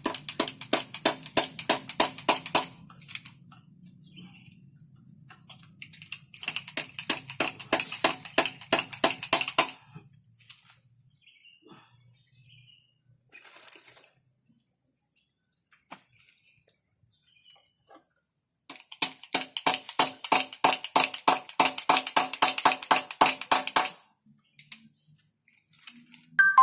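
Rapid, evenly spaced metallic strikes with a ringing tone, about five a second, in three bursts of a few seconds each.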